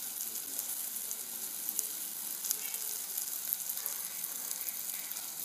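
Grasshoppers (nsenene) frying in a pan: a steady sizzle with many small crackles and pops.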